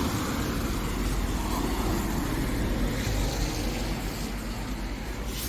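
Street traffic: a car going by close, its engine and tyre noise steady and then fading about four seconds in. A short click near the end.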